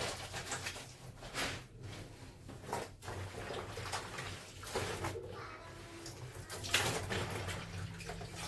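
Clothes being washed by hand: irregular wet scrubbing and rubbing strokes, with a faint steady low hum underneath.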